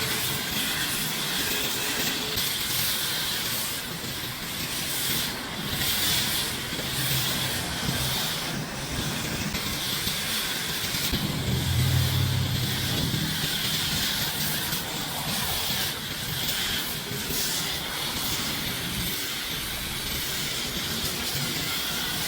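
Pressure washer spraying water onto a truck: a steady hiss, with a brief low hum swelling up about halfway through.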